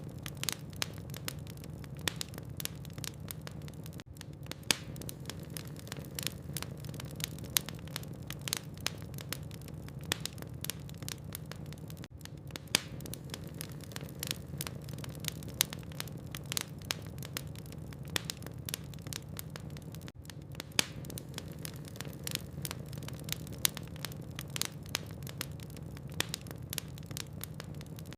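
Log fire burning in a fireplace, crackling with frequent irregular sharp snaps and pops, a few much louder than the rest, over a steady low background noise.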